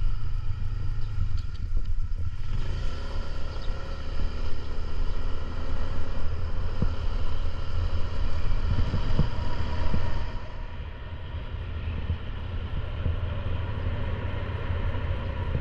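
Motorcycle engine running under way, with wind rumbling on the microphone. About ten seconds in, the sound drops a little and loses its top end, as if the rider eases off the throttle.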